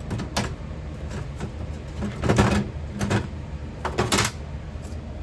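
Steady low rumble of a running metal-melting furnace, with four knocks and clatters of objects being handled: one a few tenths of a second in, a longer clatter about two seconds in, another about three seconds in, and one near four seconds.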